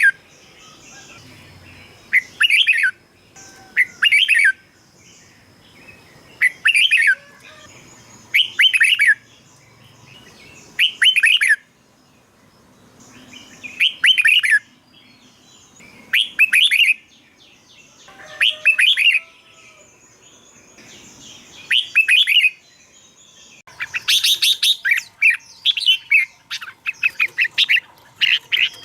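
Red-whiskered bulbul singing: short, loud phrases repeated about every two seconds, giving way to a quicker, denser run of calls in the last few seconds.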